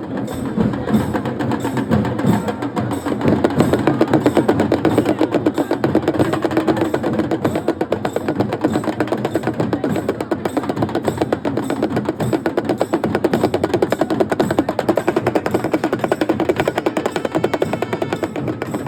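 Drum ensemble playing fast, continuous rolls, dense drumming with no pause, typical of dhol-tasha festival drumming.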